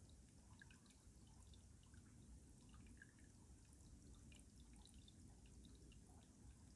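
Faint mountain stream running under ice: a low steady gurgle with many small scattered drips and plinks.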